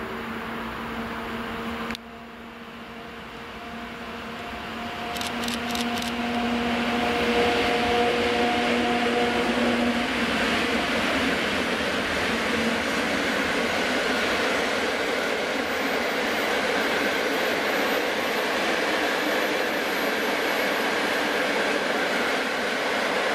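An electric locomotive hauling a long train of passenger coaches passes close by. A steady hum gives way, within the first few seconds, to the coaches' wheels running over the rails, with a few sharp clicks about five seconds in. The rolling noise then settles into a steady loud rush.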